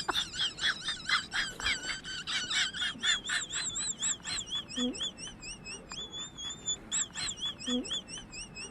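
Small birds chirping in quick, high, warbling calls, crowded and overlapping at first and settling into a steadier repeated warble. Two short low rising tones come in partway through.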